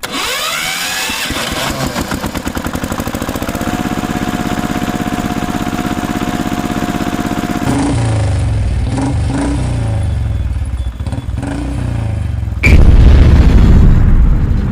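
Motor vehicle engines running in quick succession, with a rapid even pulsing. The first rises in pitch at the start, a deeper, heavier engine takes over about 8 seconds in, and it gets much louder near the end.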